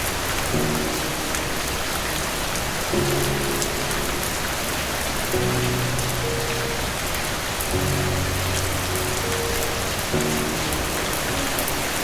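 Steady heavy rain falling, mixed with soft low music chords underneath, a new chord about every two and a half seconds.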